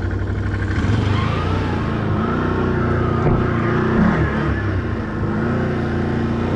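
Can-Am ATV engine running under way, the revs picking up about a second in and rising and falling through the middle.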